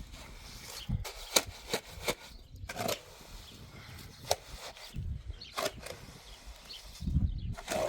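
A series of irregular sharp knocks and taps, roughly one every half-second to second, with a cluster of low thuds near the end.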